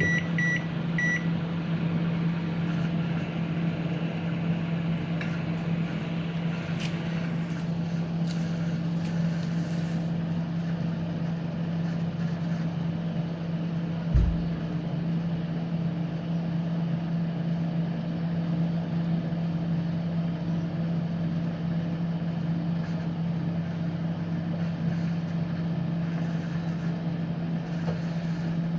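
Microwave oven running a heating cycle to test its newly replaced magnetron: a steady low electrical hum with fan noise. Keypad beeps sound in the first second, and there is a single short thump about 14 seconds in.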